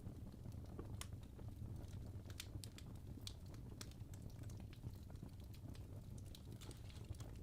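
Fire crackling: irregular sharp pops and ticks over a steady low rumble.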